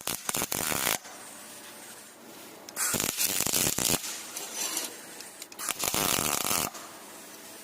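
Welding arc crackling in three short bursts of about a second each, with a steady hiss between them.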